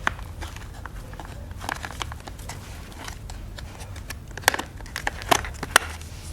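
Irregular clicks and taps of small parts and tools being handled, several sharper ones about two-thirds of the way in, over a steady low hum.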